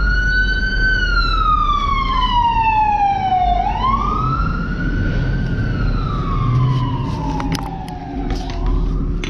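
Emergency vehicle siren wailing: its pitch sweeps up quickly and then falls slowly, about every three and a half seconds, over a low engine rumble.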